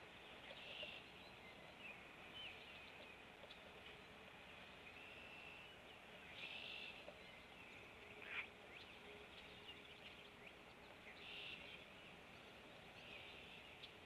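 Faint bird calls: short high chirps and brief squiggly notes every couple of seconds over a steady low outdoor hiss.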